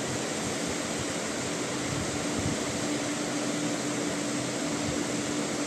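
Steady machine hum, like a running fan, with an even hiss and a constant low tone throughout.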